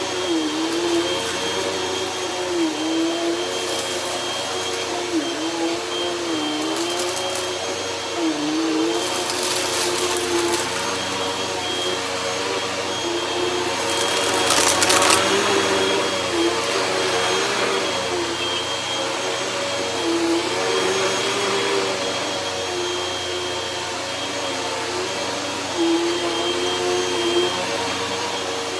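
Hoover Rewind upright vacuum cleaner running over carpet with shredded paper, its motor tone dipping briefly every few seconds. Several short bursts of crackling hiss come through as paper is sucked up, the loudest about halfway through.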